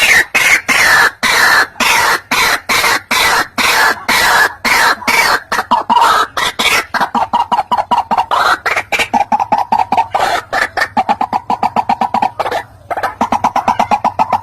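White-breasted waterhen calling: a fast, unbroken run of repeated harsh clucking notes, a few a second at first and quickening to a rapid stutter in the second half, with a short break about twelve seconds in.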